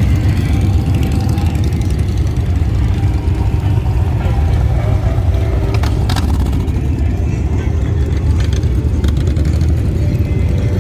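Motorcycle engines running together in a steady low rumble, with a few brief clicks about six seconds in.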